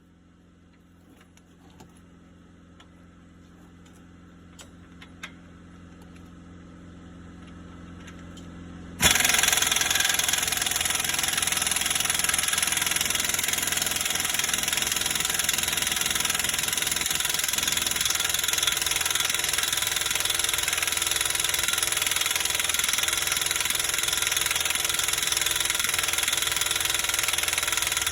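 Faint clicks and a slowly growing hum, then about a third of the way in a diesel engine comes on abruptly and runs loud and steady at idle.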